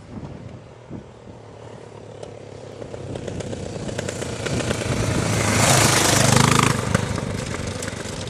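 A motorcycle engine approaching, passing close by about six seconds in, then moving away, with its sound swelling and then fading.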